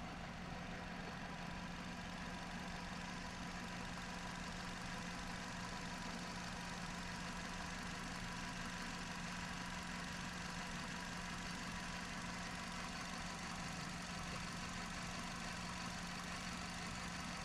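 A 2010 Hyundai Accent's 1.6-litre four-cylinder engine idling steadily.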